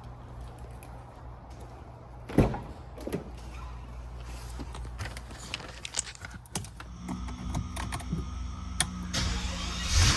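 Sounds of a Maybach 57 before a cold start. A heavy thud comes about two seconds in, then scattered clicks and faint whirring from the car's electrics. Right at the end comes a loud surge as the twin-turbo V12 is cranked.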